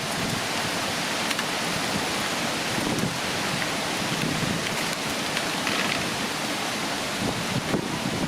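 Heavy storm rain pouring down, a steady rushing hiss.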